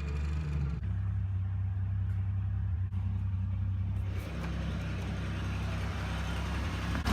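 A small vehicle engine running steadily at a low pitch, with its note stepping slightly about a second in and again around four seconds in. It is still muffled, not yet straight-piped.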